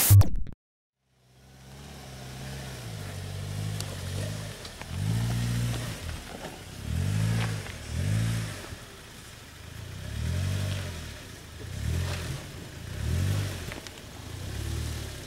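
Suzuki Jimny Sierra JB43's four-cylinder engine crawling up over rocks, rising and falling in pitch about six times as the throttle is pressed and let off.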